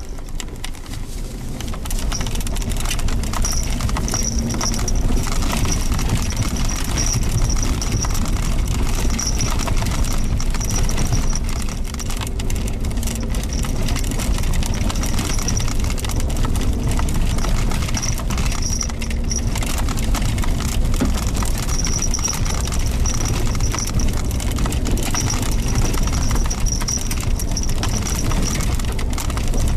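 Suzuki Jimny Sierra driving a rough dirt forest road: a steady low engine and road rumble with frequent knocks and rattles from the uneven surface, getting louder about two seconds in.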